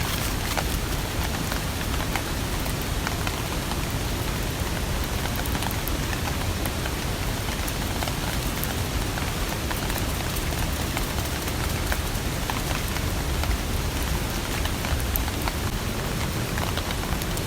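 Steady rain falling, with many separate drops striking a surface as sharp ticks over a constant hiss.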